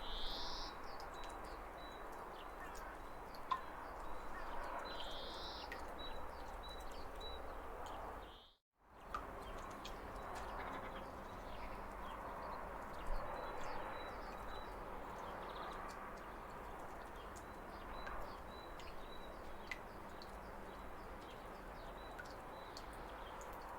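Small waterfall splashing steadily, with birds chirping high over it in short repeated notes and a couple of louder rising calls. The sound dips out briefly about a third of the way through.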